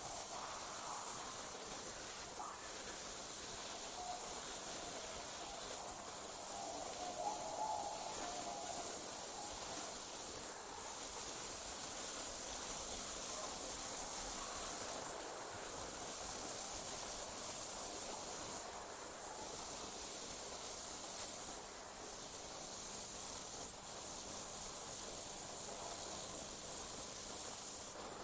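Night insects trilling: a steady, high-pitched chorus that breaks off for a moment every few seconds.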